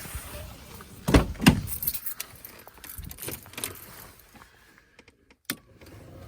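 Car keys jangling with handling noise, and two loud knocks about a second in, then a single sharp click near the end.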